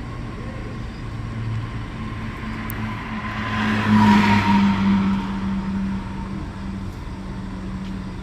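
Mercedes-Benz OC 500 RF 2542 coach's diesel engine running at steady speed under road noise. About four seconds in, a swell of rushing noise rises and fades, as a vehicle passes.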